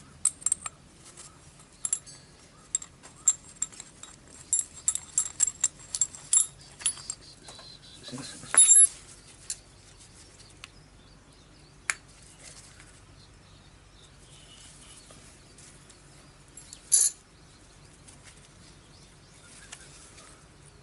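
Small metal parts and tools clicking and clinking against each other, a quick run of taps at first and then more scattered, with two louder knocks, one about eight seconds in and one near seventeen seconds.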